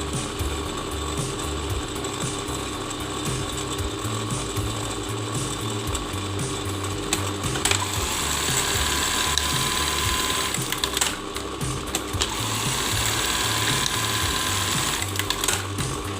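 Brother LH4-B814 industrial buttonhole sewing machine running a test cycle, its mechanism clattering in a steady rhythm, with a few sharp clicks about halfway through and near the end.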